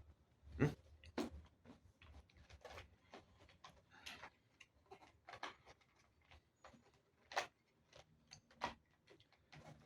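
Irregular clicks and light knocks of plastic parts being handled and fitted together, with the sharpest clicks about half a second in and near seven and a half seconds in.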